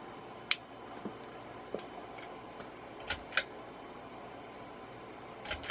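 Sharp clicks and light taps from hands working on a ceiling fan's light kit: one about half a second in, a pair about three seconds in and a quick run of them near the end, over faint steady room noise.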